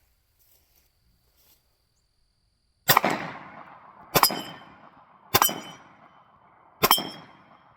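Four gunshots at a slow, steady pace, about a second and a half apart, the first nearly three seconds in. Several are followed by a short metallic ring from the steel plates of a Texas Star target being hit.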